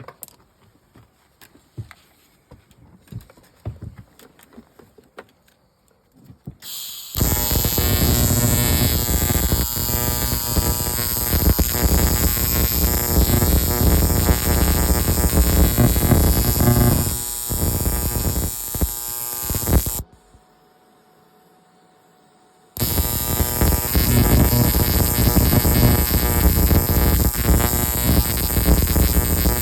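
Electric arc welder laying weld beads on snowmobile seat brackets: a loud, steady buzzing crackle that starts about seven seconds in, breaks off for a few seconds about two-thirds of the way through, then starts again.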